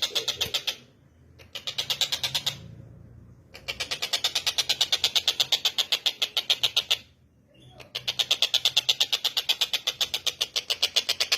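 Tengkek buto (collared kingfisher) giving its fast, harsh chattering call: long runs of sharp notes at about eight a second, broken by three short pauses.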